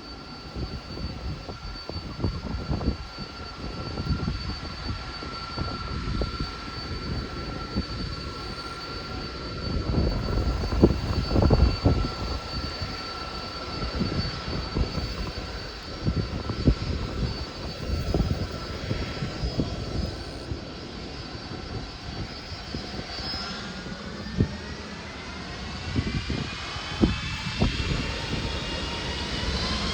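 Jet airliner engines running, a steady high whine over a low rumble. About three-quarters of the way in, a second whine starts climbing steadily in pitch and keeps rising.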